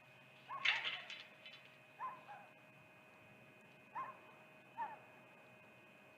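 A series of short animal calls: a quick cluster just under a second in, then single calls about two, four and five seconds in, each a brief call that rises and falls in pitch. Under them runs a faint steady electrical hum.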